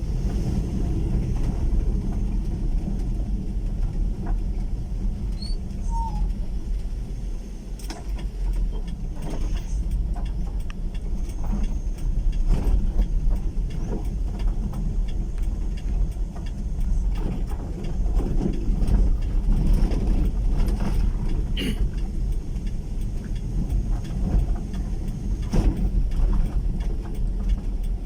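Vehicle travelling along a rough road: a steady low rumble with frequent knocks and rattles from the bumps.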